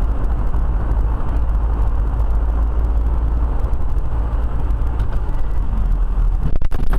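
Car driving along, a steady low rumble of engine and road noise, with a brief dropout near the end.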